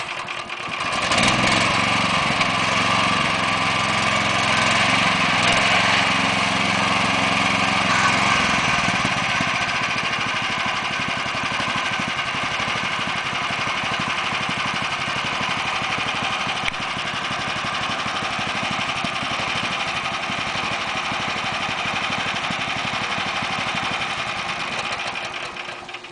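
Bolens garden tractor engine running steadily, louder for the first few seconds, then dying away just before the end.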